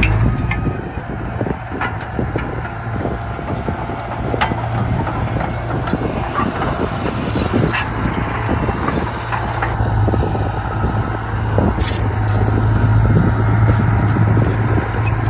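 Heavy diesel earthmoving machinery running, with scattered metallic clanks and clicks. The engine's low drone drops back just after the start and grows louder again from about ten seconds in.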